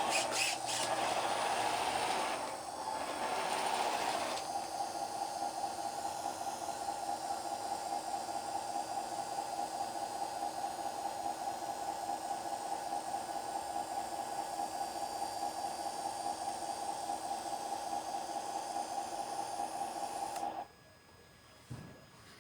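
Small electric motor driving a radio-controlled model's hydraulic pump, whining steadily. It is noisier and changing for the first few seconds, then holds one even pitch, and cuts off suddenly near the end, followed by a couple of light knocks.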